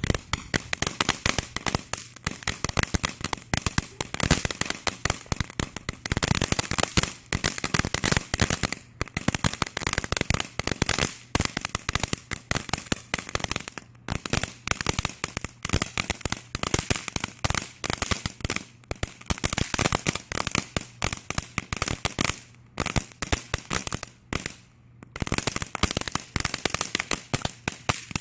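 Firecrackers going off in rapid, continuous volleys of sharp pops, with a few short pauses between runs.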